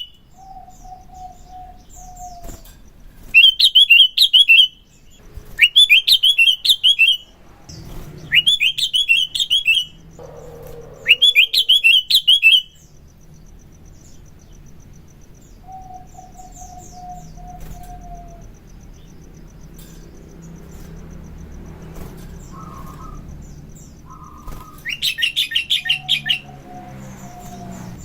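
Sooty-headed bulbul (kutilang) singing. It gives bursts of rapid, high chattering notes, each about a second and a half long, four times in the first half and once near the end. Between these come lower, slurred warbling phrases and a few short mid-pitched notes, with a quieter gap in the middle.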